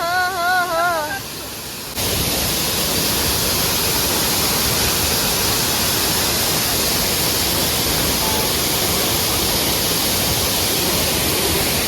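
Steady, dense rush of a waterfall close to the microphone, starting abruptly about two seconds in. Before it, a short wavering melodic tone with overtones fades out within the first second or so.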